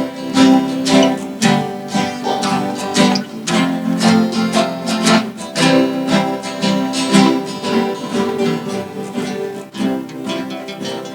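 A guitar ensemble playing a blues, with strummed chords on acoustic guitars.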